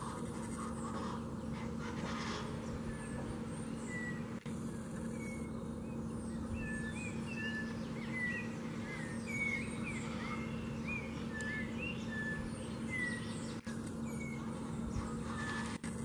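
Birds calling: a run of short chirps and whistled notes, some rising and some falling, over a steady low hum.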